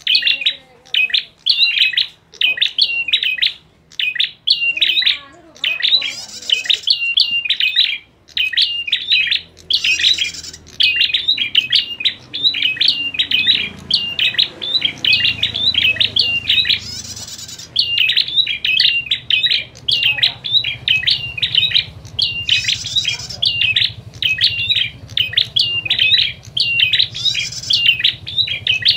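Prinias calling rapidly and without pause in an agitated, fighting-style chatter of sharp, high chirps, with a higher, buzzier burst every few seconds.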